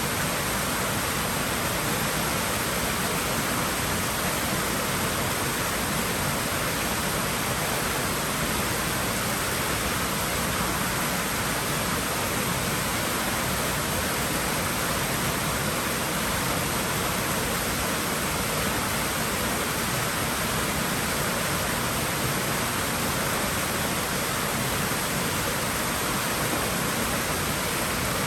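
Water running continuously in a swimming pool: a steady, even rushing sound that does not change.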